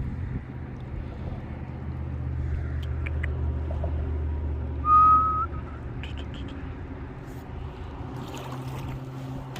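Steady low drone with a haze of wind and water noise on the lake. About five seconds in there is a short, clear, high whistle that rises slightly and is the loudest sound, followed by a few light ticks and taps near the end.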